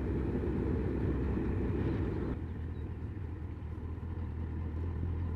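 Honda CBF1000 inline-four motorcycle engine running on the move, with road and wind noise. About two seconds in the noise drops away and a steadier low engine hum remains.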